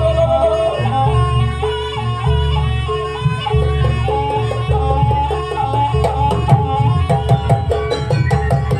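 Live traditional Banyuwangi dance music: a stepping melody carried over steady low drum strokes. About six seconds in, a fast run of sharp clicking strikes joins.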